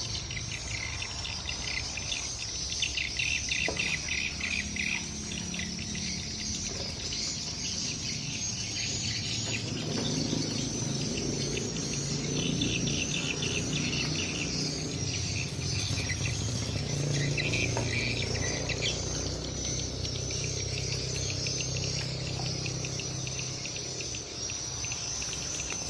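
Swiftlet calls: a dense, continuous high chirping twitter, broken by repeated bursts of rapid trilling, over a low background rumble.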